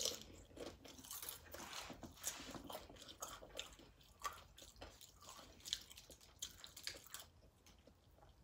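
Close-up chewing of a mouthful of loaded nachos: tortilla chips crunching in a run of small, irregular crunches, with the sharpest bite right at the start.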